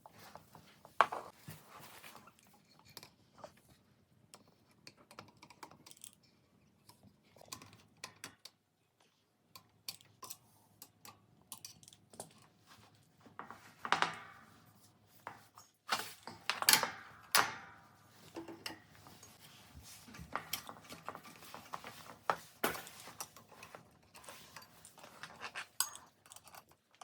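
Irregular clicks, knocks and clatter of Brandson stand-fan parts being handled and fitted together during assembly, with a few louder knocks.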